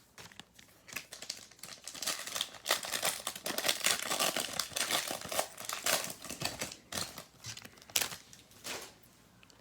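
Foil wrapper of a Chronicles basketball card pack crinkling and tearing as it is opened, a dense crackle with many sharp clicks that starts about a second in and dies away near the end.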